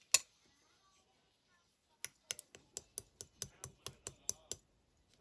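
Clear slime being pressed and poked, making sharp wet clicks and pops: one just after the start, then a quick run of about a dozen, roughly five a second, from about two seconds in.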